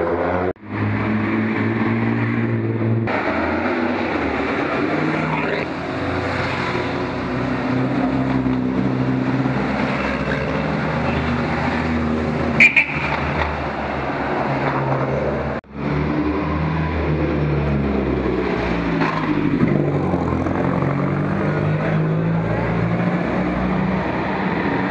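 Engines of vintage cars running as they drive past one after another, their pitch rising and falling with each pass. A short sharp sound stands out about halfway through, and the sound drops out briefly twice.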